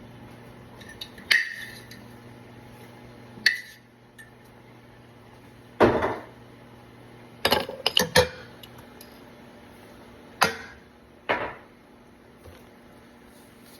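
Pots, pans and utensils clattering: separate knocks and clinks a second or two apart, with a quick run of clinks about eight seconds in. A faint low hum runs beneath and stops about nine seconds in.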